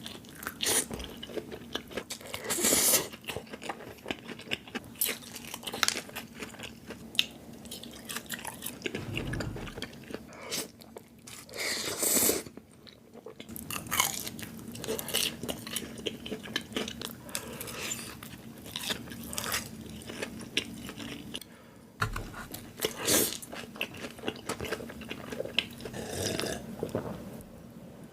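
A person biting into crunchy food and chewing, with many irregular crackling bites and wet chewing sounds.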